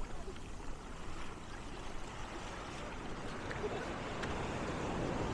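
Ocean surf washing in, a steady rush that builds toward the end.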